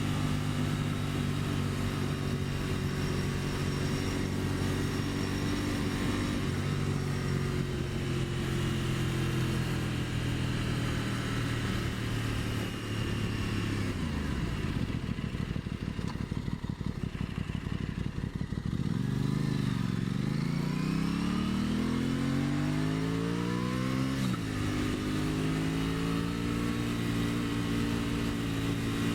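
2023 Aprilia Tuono 660's parallel-twin engine under way: steady revs for the first half, then the revs fall off to a low, uneven beat about 14 seconds in. Around 19 seconds it pulls away with rising pitch, changes gear with a sudden drop about 24 seconds in, and runs steady again.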